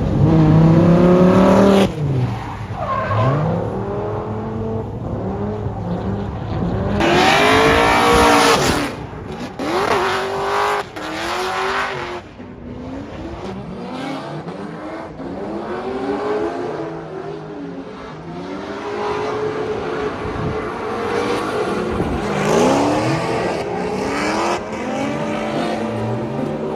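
Drift cars sliding around the track, their engines revving up and dropping off again and again over screeching tyres. The loudest passes come at the start and about eight seconds in.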